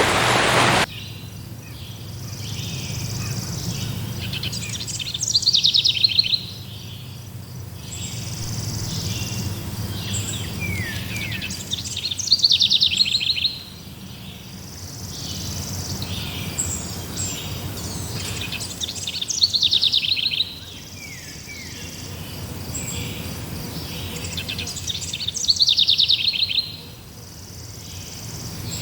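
A songbird repeating a fast, descending trilled song phrase four times, about every seven seconds, over a steady high-pitched insect chorus. A rushing noise at the very start cuts off within the first second.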